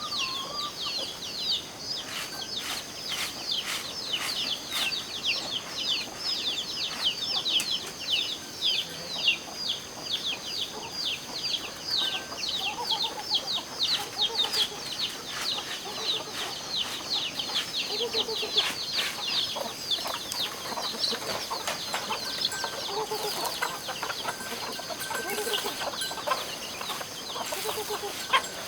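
Chickens calling: rapid high-pitched chirping that carries on throughout, with lower clucks now and then.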